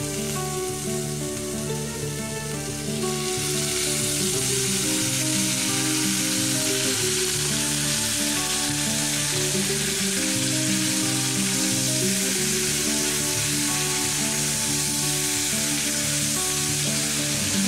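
Chicken and potato pieces sizzling as they fry in oil in a kadai over a wood fire, the sizzling growing louder about three seconds in, with the metal spatula stirring them near the end. Background music plays underneath.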